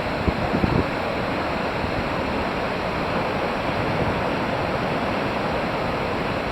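Steady rushing roar of a waterfall. A few low gusts of wind hit the microphone in the first second.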